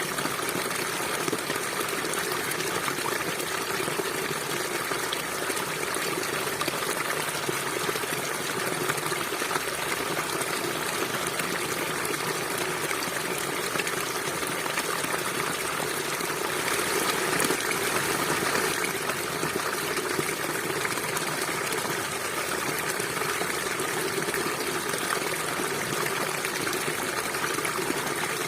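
River water flowing steadily, a continuous rushing and trickling, swelling slightly about two-thirds of the way through.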